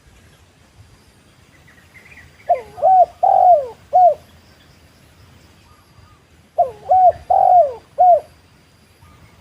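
Spotted dove cooing: two phrases of four notes each, about four seconds apart. Faint high chirps of a small bird come just before the first phrase.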